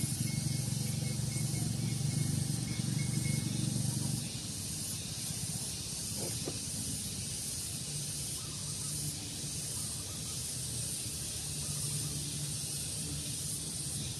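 Outdoor ambience: a steady high-pitched hiss over a low rumble, the rumble dropping away about four seconds in.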